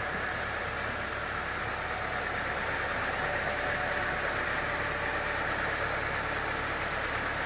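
Engine idling steadily, a low even hum with no change in speed.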